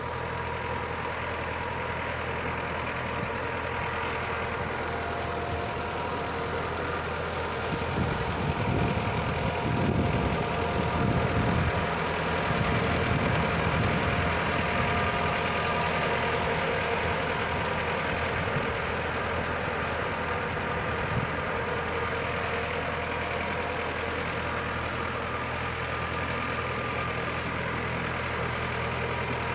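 Mitsubishi tractor's engine running steadily, with a louder, rougher stretch about a third of the way in that settles back to an even run.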